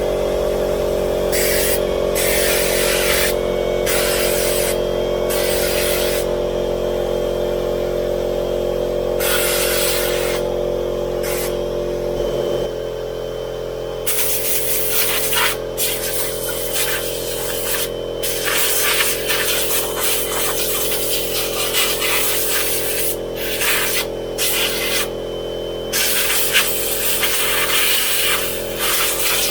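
A motor running at a steady pitch after winding up to speed, with repeated short bursts of hissing air, as when dirt and nest material are blown out of a small engine. About halfway through, the motor's hum thins and changes.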